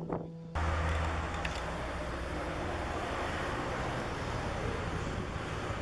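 Steady background noise with a low hum, starting abruptly about half a second in as the music stops.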